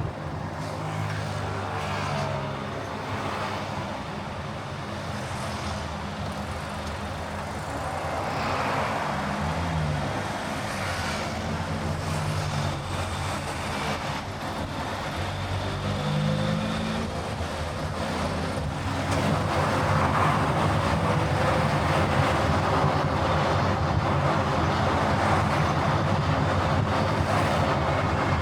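Car running along the road: steady engine hum with tyre and road noise, the engine pitch rising and falling a few times, and the whole getting louder about two-thirds of the way through.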